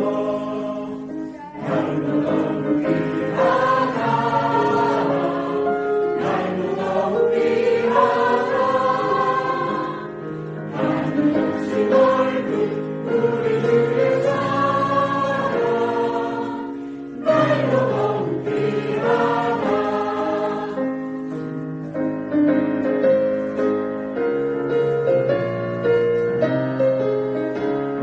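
Church choir singing a hymn in long phrases, with brief breaks between them.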